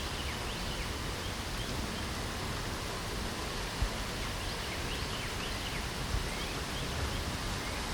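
Steady hiss of light rain with many short, quick bird chirps scattered through it. There are soft low thumps about four seconds in and again near six seconds.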